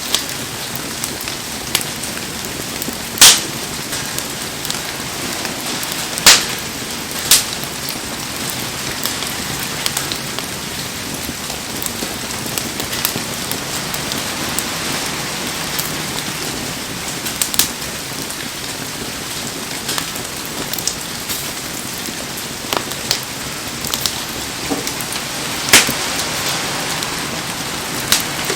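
Heavy rain falling steadily, an even hiss, with a handful of sharp pops standing out above it, the loudest about three seconds in.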